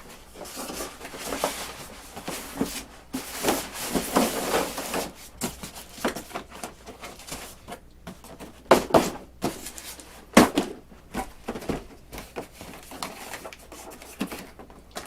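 Foam RC airplane parts and foam packing pieces being pushed and fitted into their box: irregular scraping and rustling with many small knocks, and two sharper knocks at about nine and ten seconds in.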